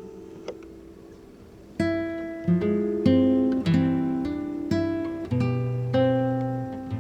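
Intro music on acoustic guitar: plucked notes, soft at first, then a run of notes starting about two seconds in.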